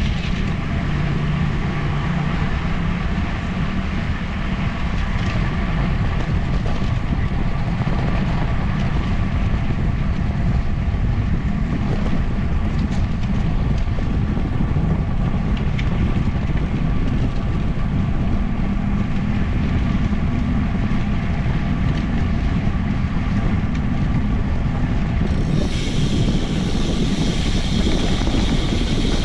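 Steady wind buffeting on the microphone of a moving bicycle, heavy and low. Near the end a higher, steady hiss joins it.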